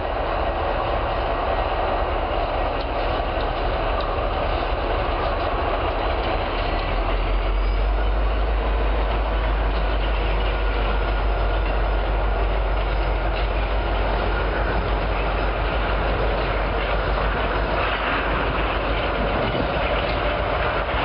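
Freight train of railroad tank cars rolling past, a steady rumble with wheel clatter on the rails. The deep rumble grows stronger about seven seconds in.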